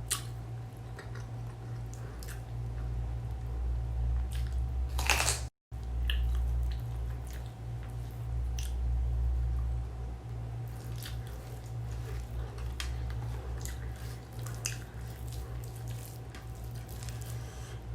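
A person chewing and eating mixed rice, with scattered wet mouth clicks and smacks. A louder burst of noise comes about five seconds in, then the sound cuts out for a moment. A steady low hum runs underneath.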